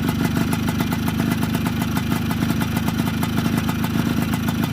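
Suzuki Samurai motorcycle's two-stroke single-cylinder engine running steadily at idle, with fast, even firing beats and no revving.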